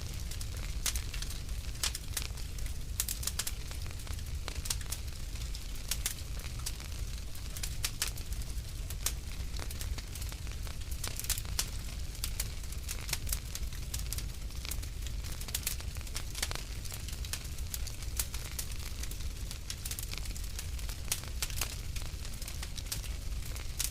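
Fireplace fire crackling, with many irregular sharp snaps and pops over a low steady rumble.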